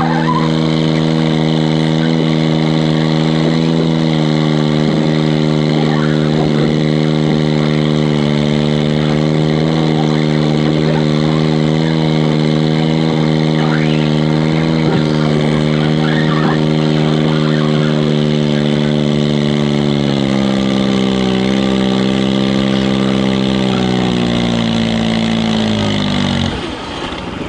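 Diesel garden tractor engine running hard at steady revs during a pull, its pitch held for about twenty seconds. Over the last several seconds the revs sag, then fall away sharply near the end.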